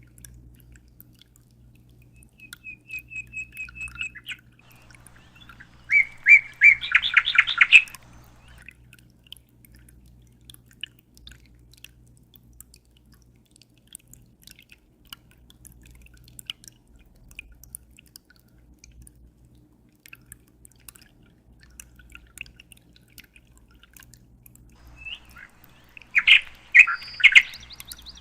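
Birds chirping: a short trill of repeated notes about three seconds in, a loud burst of rapid chirps a few seconds later, and another near the end. Between them, faint dripping water over a steady low hum.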